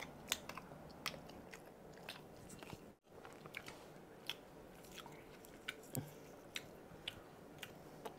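Close-miked mouth sounds of chewing and biting spicy chicken satay pulled off a wooden skewer: faint, irregular wet clicks and smacks. The sound drops out briefly about three seconds in.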